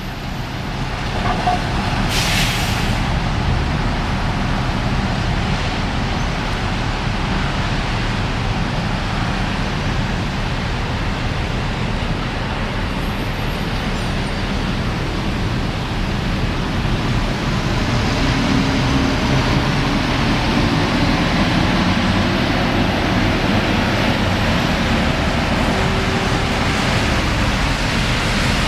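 Traffic on a rain-wet road: a steady hiss of tyres on wet tarmac under the hum of passing engines. There is a brief sharp hiss about two seconds in, and a heavier engine passes in the second half, its note rising and then falling.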